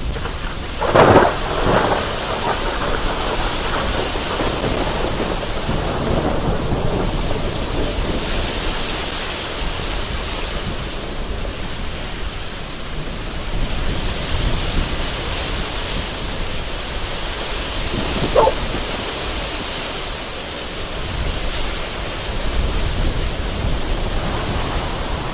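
Heavy rain and gusting wind as a steady hiss, with thunder rumbling low underneath. A short loud crack comes about a second in, and a sharper, fainter one about two-thirds of the way through.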